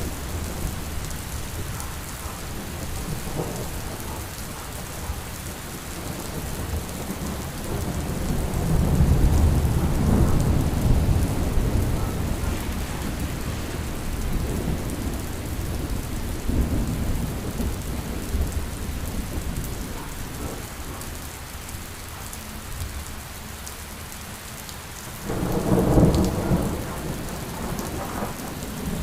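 Steady rain with rolling thunder: low rumbles swell several times, loudest for a few seconds about a third of the way in and again in a sharper clap near the end.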